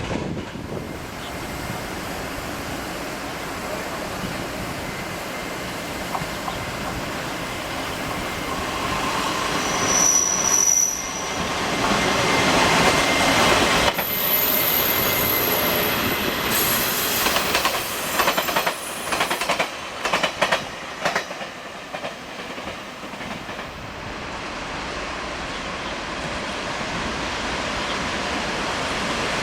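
Taiwan Railways train running along the track, steady wheel-on-rail noise building to its loudest about halfway through. Brief high-pitched wheel squeals come about a third of the way in, followed by a run of sharp clicks from wheels crossing rail joints.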